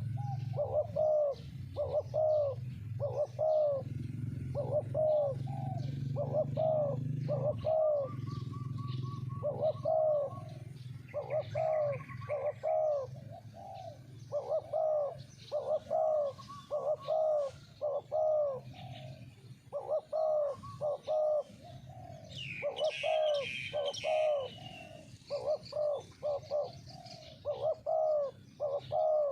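Spotted doves cooing over and over, phrase after phrase of low coos. A small songbird chirps briefly about two-thirds of the way in, over a low steady hum.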